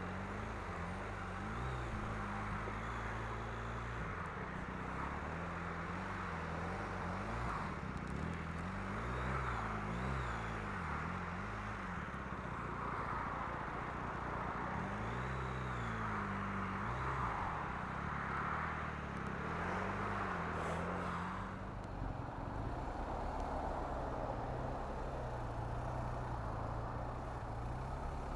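Motorcycle riding through slow traffic: the engine's pitch rises and falls several times with the throttle over steady wind and road noise, which eases a little about three quarters of the way through.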